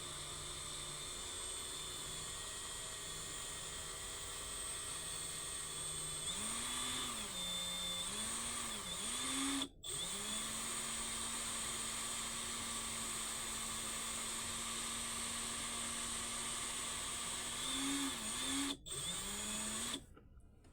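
Power drill motor speeding up and slowing in a few short spurts, then running steadily for about eight seconds, with more short spurts near the end. A steady hiss and hum sit underneath throughout.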